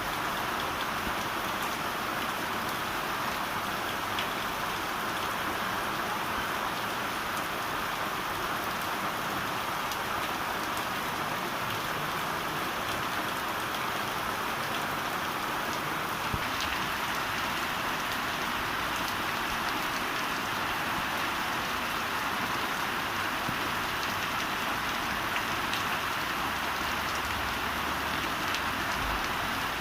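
Heavy rain falling steadily, an even dense hiss of drops on surfaces.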